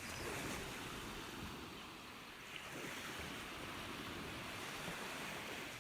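Ocean surf washing in as a steady hiss, easing a little about two seconds in and swelling again.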